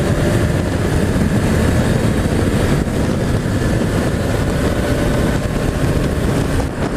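Honda CBR500's parallel-twin engine running steadily while riding at speed, mixed with a loud, even rush of wind and road noise.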